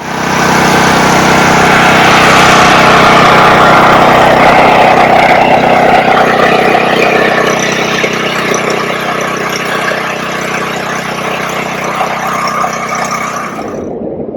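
Engine running steadily and loud, starting abruptly at full volume, then slowly getting quieter through the second half; the high hiss over it cuts off near the end.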